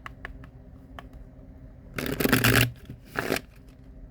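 Tarot cards being handled and shuffled: a few light clicks, then a papery riffle about two seconds in and a shorter one about a second later.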